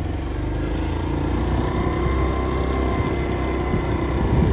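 Boom Vader 125cc single-cylinder four-stroke engine pulling away from a stop and picking up speed, heard from the rider's handlebars, with wind noise on the microphone.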